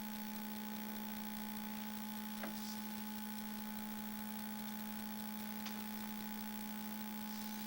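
Steady electrical hum with a constant low tone and a fainter higher one, broken by three faint, brief clicks.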